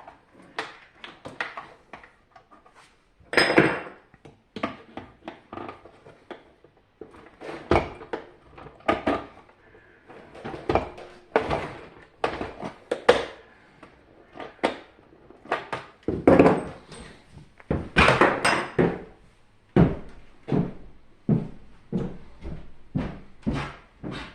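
Irregular knocks, clicks and scrapes of dehumidifier parts being handled, shifted and set down during disassembly, with a few longer rattling scrapes.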